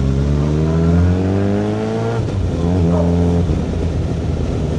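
Suzuki Hayabusa's inline-four engine accelerating, its pitch rising for about two seconds, dropping sharply at an upshift and climbing again briefly. About three and a half seconds in the throttle closes and the engine note fades under wind and road noise.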